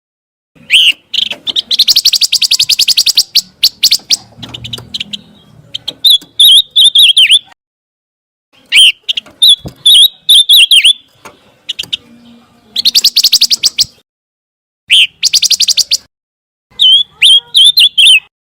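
Pancawarna songbird singing in separate loud bursts: fast rattling trills of many short notes alternate with phrases of quick, up-and-down whistled notes, with short silent gaps between the bursts.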